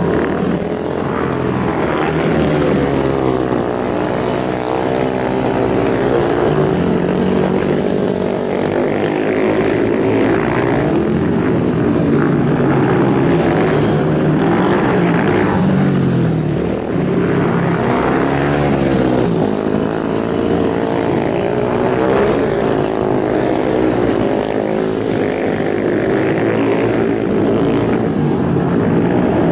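Several racing motorcycle engines revving, their pitches rising and falling against one another as they accelerate and shift.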